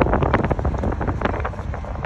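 A train rolling through a rail yard: a steady low rumble with a quick run of sharp clanks and squeals in the first second and a half, and wind buffeting the microphone.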